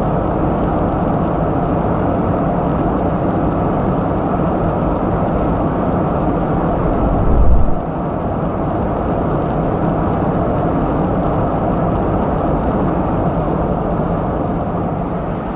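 Bugatti Chiron Super Sport on the move: a steady low rumble, with one short low thump about seven and a half seconds in, easing slightly near the end.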